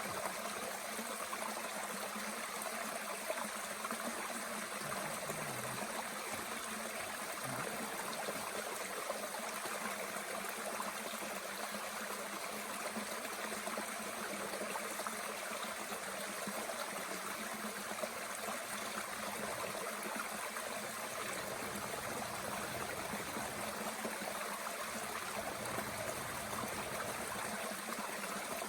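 Mountain stream running steadily, with a few sharp crackles from a small wood fire burning in a Bushbox stove.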